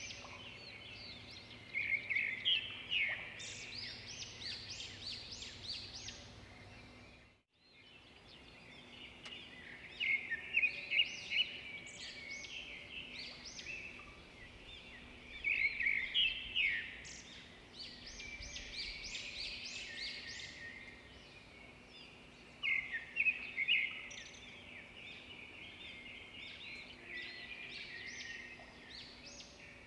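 Songbirds chirping and singing together in a busy chorus of quick, high calls that swell in bursts every few seconds, with a brief break about seven and a half seconds in.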